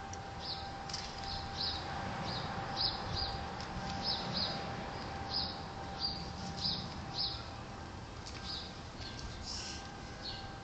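A small bird chirping over and over, about two short high chirps a second, with a steady thin tone and low rumble underneath.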